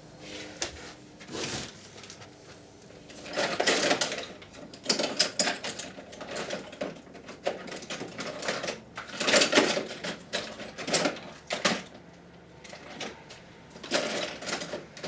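Parts of a radio cassette recorder being handled during a teardown: irregular clicks, knocks and scrapes of plastic and metal, coming in clusters.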